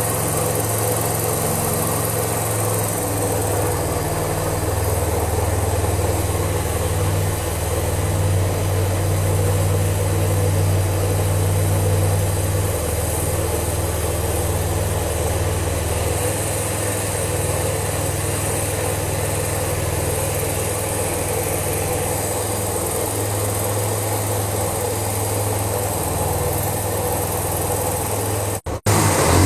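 Motorcycle engine idling steadily. The sound drops out for a moment near the end.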